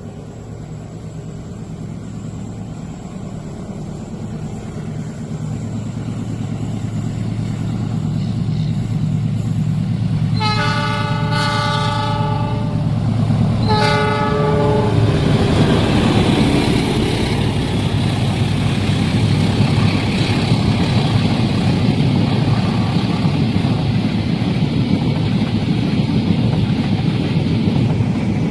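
Diesel locomotive approaching, its engine hum growing steadily louder. It sounds its horn twice, a long blast about ten seconds in and a shorter one about three seconds later, then the train passes with a loud, steady rumble of wheels on rail.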